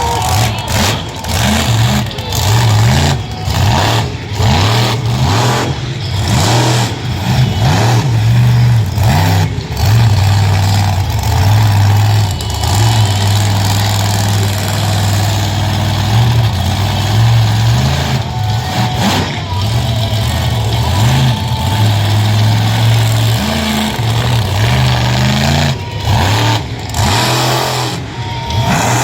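Monster truck engine running loud and hard, its pitch repeatedly rising and falling as the throttle is worked, with brief dips in level throughout.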